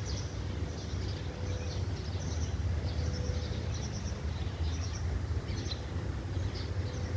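Small birds chirping in short, high, repeated calls, several a second, over a steady low rumble.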